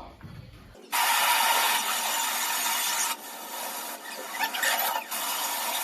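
Heavy rain pouring in rainstorm footage: a dense, steady hiss that starts about a second in and jumps in level abruptly a few times at cuts in the footage.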